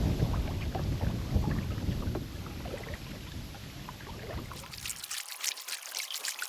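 Wind rumbling on the microphone while a kayak is paddled, with small knocks and splashes. About five seconds in, this cuts off abruptly and gives way to a thin trickling and splashing of water.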